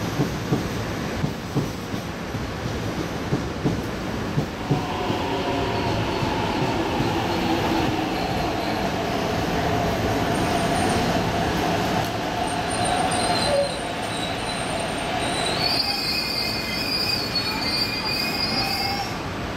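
MTR East Rail Line R-Train electric multiple unit rolling into a station and braking. Its wheels click over the rails for the first few seconds. Steady squealing tones then set in, turning into a higher-pitched squeal in the last few seconds as it slows toward a stop.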